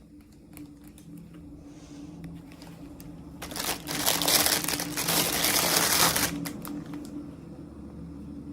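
Packaging crinkling and rustling loudly for about three seconds in the middle, as a miniature-toy package is opened by hand, with light scattered clicks before and after.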